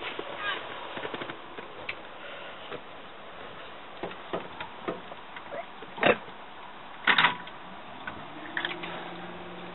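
Scattered light clicks and knocks, then two loud thumps about six and seven seconds in. Near the end a vehicle engine starts, its hum rising in pitch and then holding steady.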